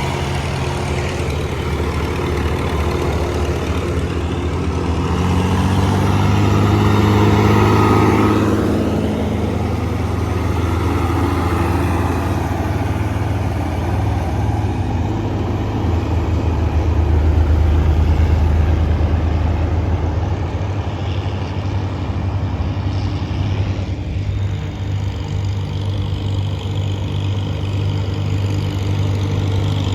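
Vintage tractor engine running steadily, swelling louder about eight seconds in and again around eighteen seconds.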